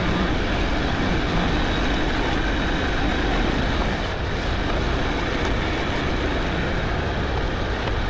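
Diesel tractor engine running steadily while its loader forks are worked to lift a load.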